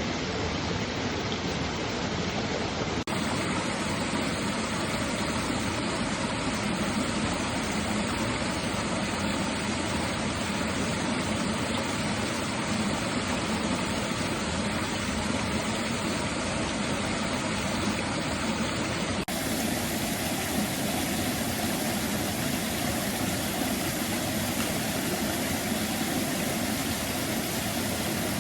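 Mountain stream rushing steadily over rocks, an even wash of water noise that shifts abruptly in tone twice, about three seconds in and again about two-thirds of the way through.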